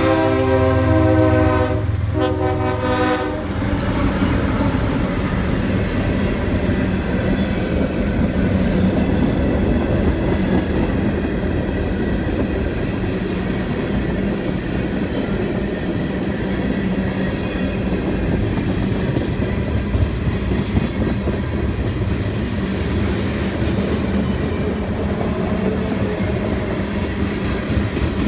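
CSX freight train passing: the locomotive's horn sounds, with a short break, and ends about three seconds in, then the train rolls by with a steady engine hum and wheel clatter over the rail joints.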